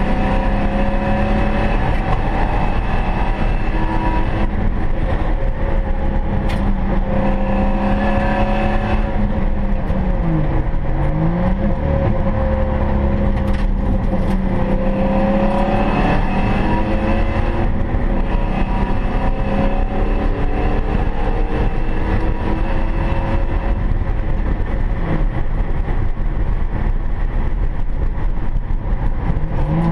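1995 Ford Mustang SVT Cobra R's 5.8-litre V8 heard from inside the cabin under hard track driving. The engine note rises and falls with throttle through the corners, dipping sharply and climbing straight back about ten seconds in, over a steady rushing noise.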